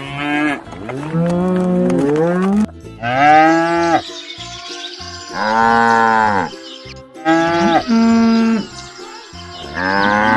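Cattle mooing: about six loud, drawn-out calls in quick succession, each rising and falling in pitch.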